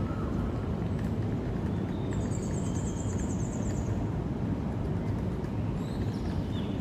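Steady low outdoor rumble of wind and distant city noise, with a high, rapid trill about two seconds in lasting under two seconds, and a few short bird chirps near the end.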